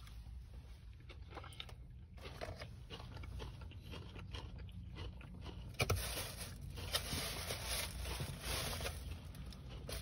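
Close-up chewing and crunching of food, with many small crackly bites. A low steady rumble runs underneath, and there is a sharp click just before the six-second mark.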